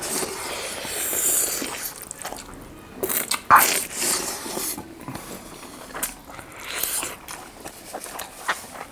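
Close-miked eating sounds: meat lollipops on the bone being bitten into and chewed, as a run of uneven bites and wet chewing with a sharper bite about three and a half seconds in.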